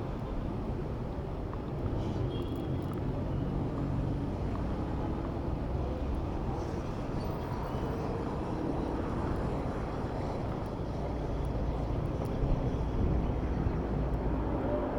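City street traffic heard from a moving bicycle: a steady low rumble of nearby vehicle engines and road noise, with a brief knock about twelve seconds in.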